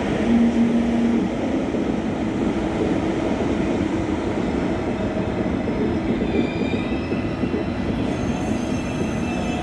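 A train rolling through the station with a steady wheel-on-rail rumble. Thin, high wheel squeal joins in from about six seconds in.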